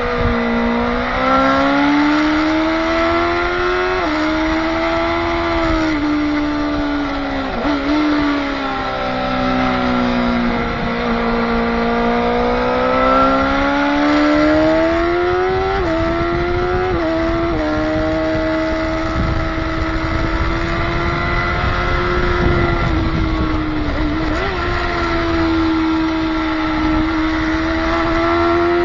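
Motorcycle engine at speed on a race track, its pitch climbing and falling with throttle and revs, with a few quick dips in pitch at gear changes. A rush of wind and road noise runs underneath.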